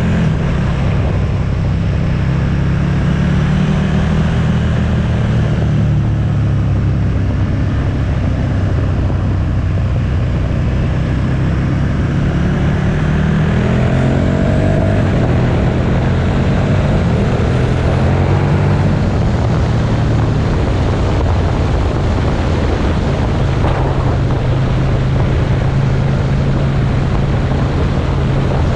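Motorcycle engine running at road speed with wind rushing over the microphone; about halfway through, the engine pitch climbs as the bike accelerates, then settles back to a steady drone.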